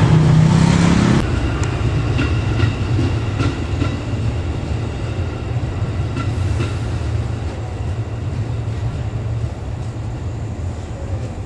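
Diesel locomotive hauling a passenger train as it approaches: a steady low engine drone with faint wheel clicks over the rail joints. A louder rumble cuts off abruptly about a second in.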